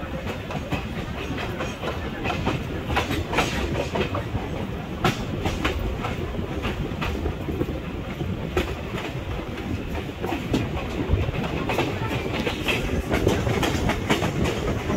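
Indian Railways express train running along the track, heard from an open coach doorway: a steady rumble of the coaches with irregular clickety-clack as the wheels cross rail joints and points.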